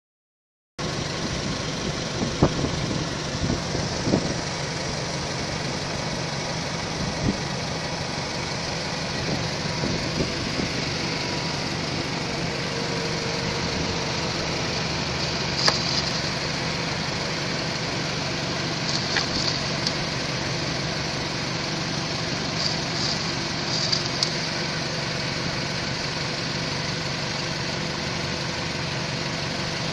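Toyota Camry engine idling with a knock, which the owner puts down to a bad head gasket; a few sharper ticks stand out now and then.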